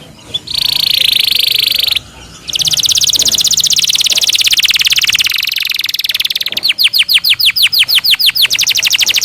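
Domestic canary singing a rolling song: a short buzzy trill, then after a brief pause a long, fast trill, changing a few seconds later to slower repeated downward-sweeping notes at about eight a second.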